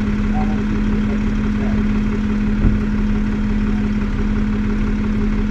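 Tow truck engine idling steadily, with one short knock about two and a half seconds in.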